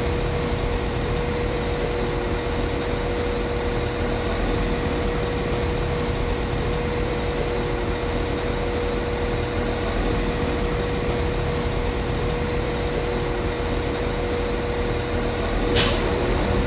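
Class 195 CAF Civity diesel multiple unit's MTU six-cylinder diesel engine idling steadily, with a constant mid-pitched hum. A single sharp click sounds near the end.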